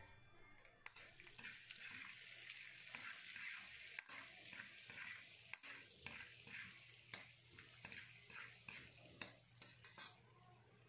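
Faint sizzle of butter and peppercorns frying in oil in an aluminium wok, with a metal ladle stirring and now and then clicking against the pan.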